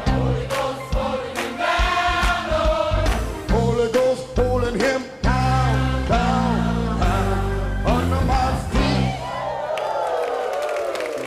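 Live gospel music: singing voices over a band with heavy bass notes and drum strikes. About nine and a half seconds in the bass and drums drop out, leaving the voices.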